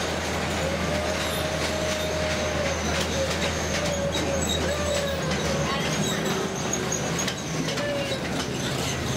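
Miniature zoo train running through a tunnel, heard from an open passenger car: a steady low engine hum, with sharp clicks from the rail joints. A long wavering wheel squeal runs through the first half.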